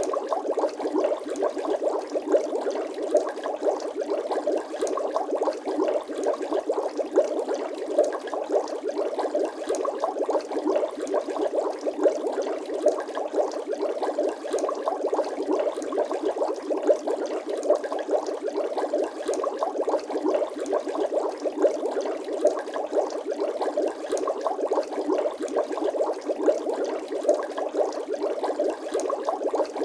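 Bubbling-water sound effect: a steady, dense stream of small bubble pops and gurgles, thin and with no deep rumble.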